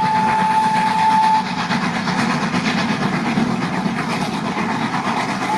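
Steam locomotive dressed as Thomas the Tank Engine moving slowly, with a steady rush and rattle of steam and running gear. A steady high tone sounds for the first second and a half.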